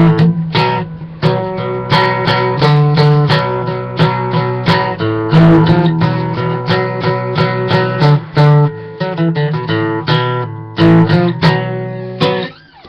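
Acoustic guitar strummed in steady chords, the closing bars of a country song with no singing. It ends with the chords dying away just before the end.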